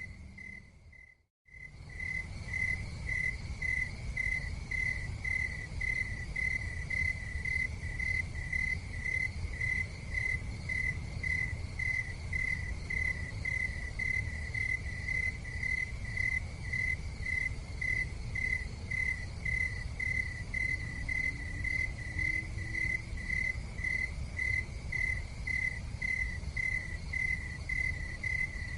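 Cricket chirping in an even, steady rhythm of about two chirps a second, over a steady low rumble. The sound cuts out completely for a moment about a second in.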